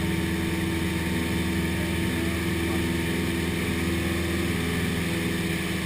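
Cessna 172's piston engine and propeller running with a steady drone and even hiss, unchanging in pitch and level.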